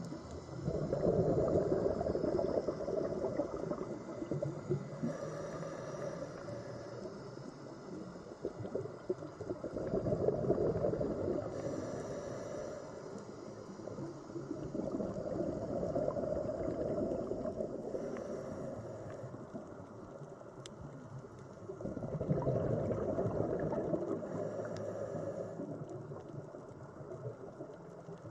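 Underwater ambience: a muffled, low rush of water that swells and fades about every five to six seconds.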